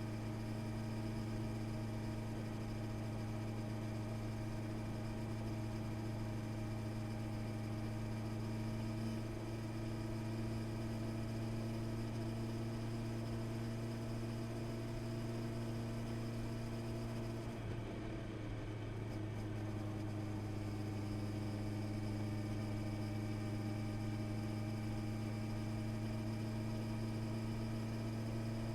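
Honda CB650R's inline-four engine running at a steady, even pitch. About two-thirds of the way through, its note briefly wavers as the throttle or gear changes, then settles back to the same steady run.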